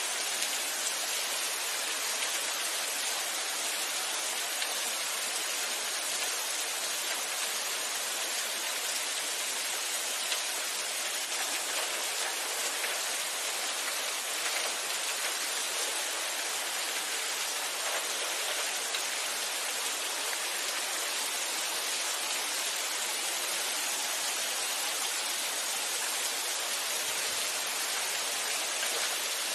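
Steady rain falling, an even hiss with the patter of drops on surfaces.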